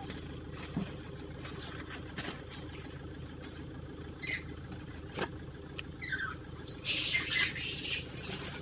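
Monkeys giving a few short, high squeaks, about four and six seconds in, and a brief scuffle-like burst near seven seconds, over a steady low hum.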